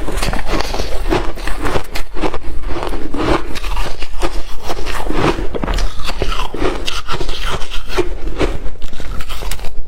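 Close-miked biting and chewing of frosty ice, a dense run of quick, irregular crunches.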